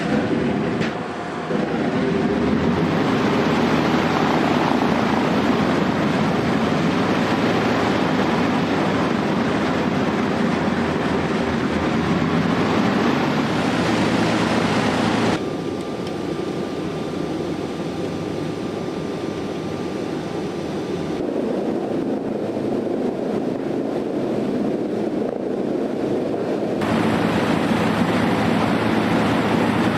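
Boeing C-97 Stratofreighter's four Pratt & Whitney R-4360 Wasp Major radial piston engines running with a loud, steady drone. About halfway through the sound abruptly turns quieter and duller, and near the end it comes back louder and brighter.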